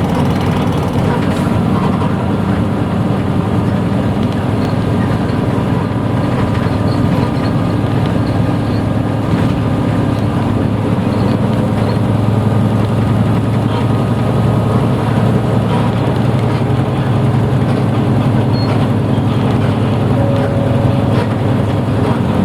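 Inside a 1994 Hino Blue Ribbon city bus under way: a steady, low engine drone mixed with road noise, holding an even pace.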